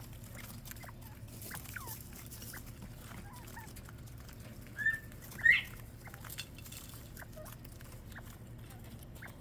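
Quail peeping and chirping softly while feeding, with two loud rising calls about five seconds in.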